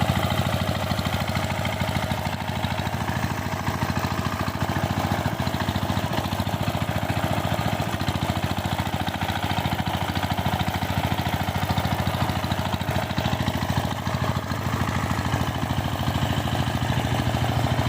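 Power tiller engine running steadily, with a fast, even beat of firing strokes.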